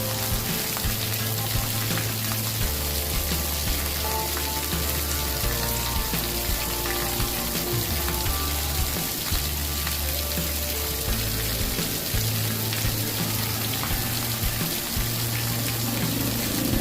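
Campfire crackling in many small pops over a steady hiss, with low held notes that change pitch every second or two underneath.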